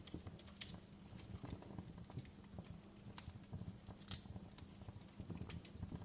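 Outdoor fire crackling, with irregular sharp pops and snaps over a low, steady background of burning.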